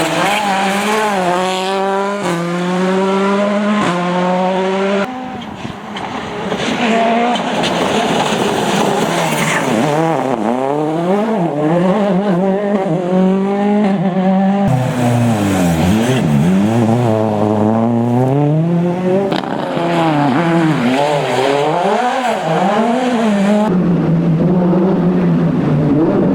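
Rally car engines driven hard: the engine pitch climbs in steps through the gear changes, then swings sharply up and down as the throttle is lifted and reapplied. Several passes are cut together, the sound changing abruptly about five, fifteen and twenty-four seconds in.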